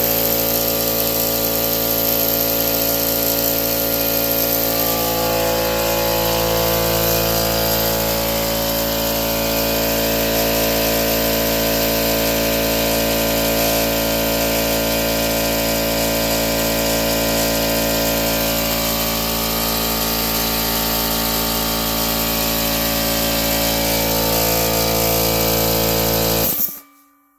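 Central Pneumatic 21-gallon air compressor running loud and steady while refilling its tank: a motor-driven pump with many steady tones over a hiss. It stops suddenly near the end.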